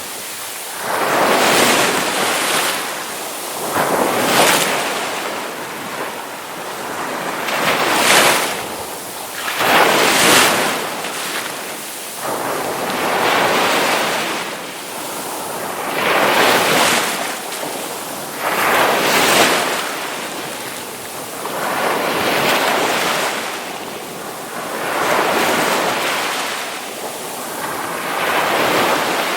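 Ocean waves breaking on a shore, each surge of surf swelling and fading every two to three seconds, with a wash of wind.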